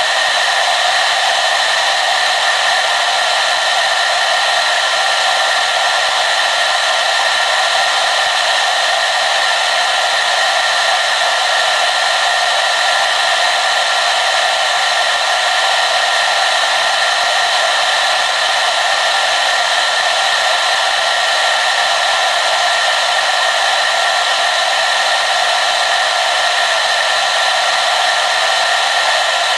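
Hair dryer running steadily: an even rushing of blown air with a faint steady whine, unchanging throughout.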